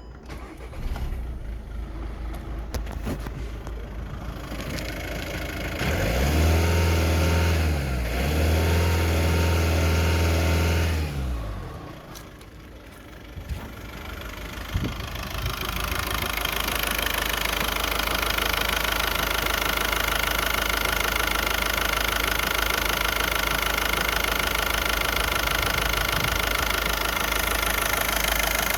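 VW Golf 6's 1.6 TDI four-cylinder common-rail diesel engine. A loud low drone comes a few seconds in; then the engine starts and settles into a steady idle with the typical diesel clatter.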